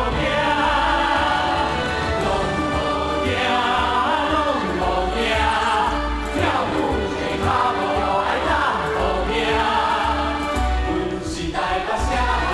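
Stage-musical music: a choir of several voices singing over instrumental accompaniment with a steady low bass.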